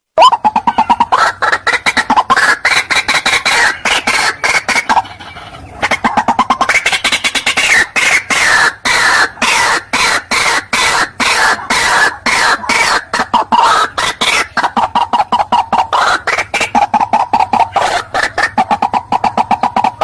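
White-breasted waterhen (teruwok) calling, a loud fast run of harsh repeated notes, several a second, with a brief pause about five seconds in. It is a recorded call of the kind played back to lure the bird when hunting.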